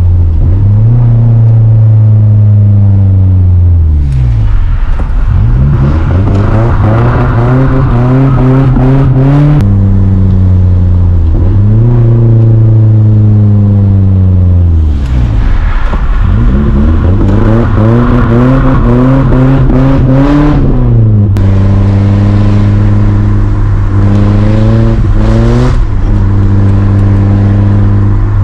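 Nissan 240SX engine revving up and dropping back again and again, held at high revs twice for several seconds with a rushing noise on top, and cut off sharply each time, as the car is slid about on a wet street.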